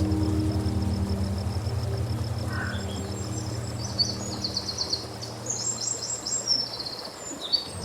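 Small birds singing, with high chirps and rapid trills, over a low ambient synthesizer drone that fades away in the second half.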